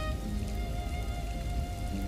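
Steady rain with soft ambient music: held electronic notes over the even patter of raindrops.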